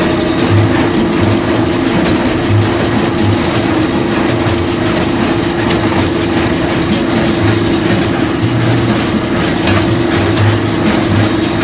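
Heavy farm machinery running steadily: a constant engine hum over mechanical noise, with low pulses that come and go.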